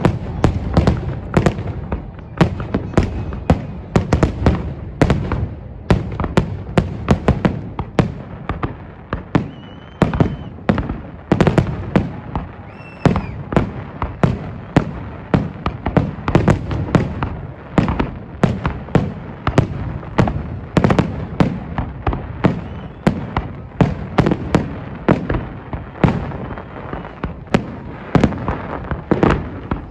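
Fireworks display: a rapid, irregular, unbroken run of aerial shell bursts, about two or three booms a second.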